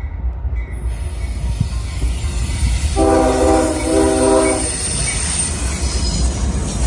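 CSX freight train passing with a steady low rumble. About three seconds in, the locomotive's air horn sounds one chord blast of several notes lasting under two seconds.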